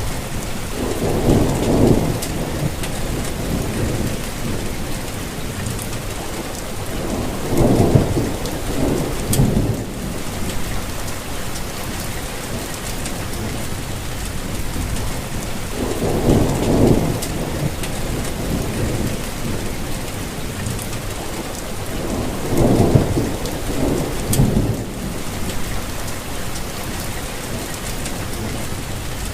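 Steady rainfall, an even hiss, with a low rumble swelling and fading four times, each lasting a second or two.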